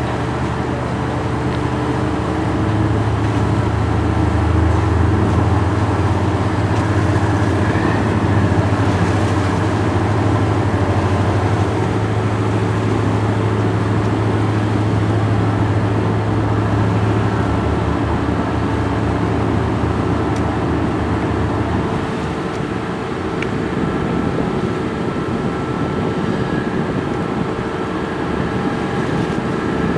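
Boat engine running steadily under heavy load with a low drone; about 22 seconds in the drone drops away and a lighter engine noise carries on.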